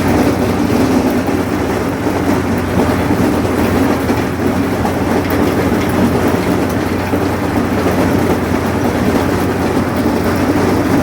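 Allis-Chalmers 7000 tractor's diesel engine running steadily under load while it pulls a sickle mower through hay, with a clattering mechanical rattle. Really loud.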